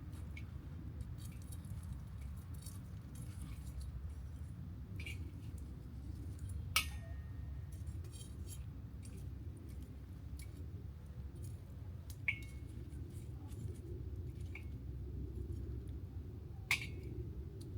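Wood campfire crackling: scattered small ticks and a few sharp pops, the loudest about 7, 12 and 17 seconds in, over a low steady rumble.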